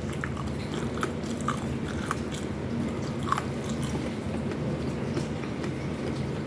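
A person chewing food close to the microphone, with scattered small clicking mouth sounds, over a steady low hum.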